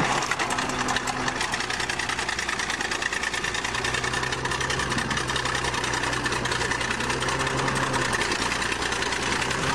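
Bulldozer's diesel engine running steadily, with a fast even clatter from its firing.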